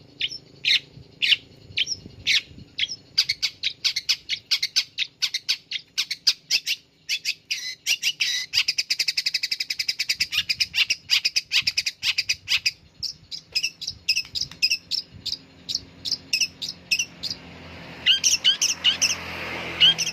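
Long-tailed shrike (cendet) singing loudly in a string of short, sharp, high notes that speed up into a rapid chatter a little before halfway, then slow again; a rising hiss of noise comes in under the notes near the end.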